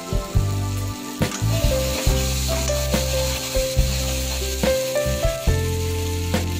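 Chopped onion, chilli and curry leaves sizzling in hot oil in a pan as a metal ladle stirs them, over background music with held notes and a deep bass line.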